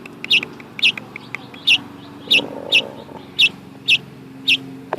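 Fledgling bird chirping over and over, short high chirps about two a second.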